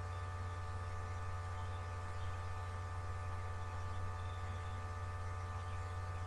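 Steady electrical hum, with faint hiss, that does not change.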